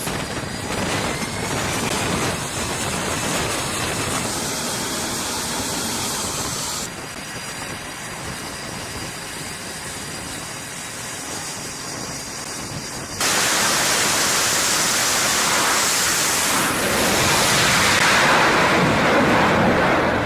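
Jet aircraft noise: a steady rushing sound with a faint high whine. It drops abruptly about a third of the way in, then jumps much louder about two thirds in and is loudest near the end.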